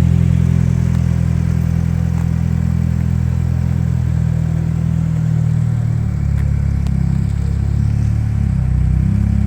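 Toyota 4A-GE 20-valve blacktop four-cylinder engine with individual throttle bodies running at a steady low idle through a big-bore aftermarket exhaust. Its note shifts a little from about six seconds in.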